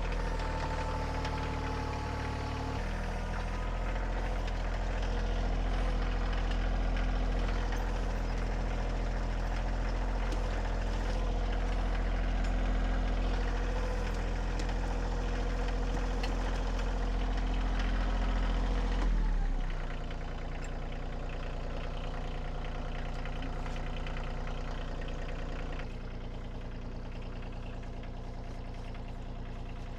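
Bobcat compact tractor's engine running steadily and working, growing stronger about three seconds in, then dropping suddenly to a lower, quieter speed about two-thirds of the way through, with another small change near the end.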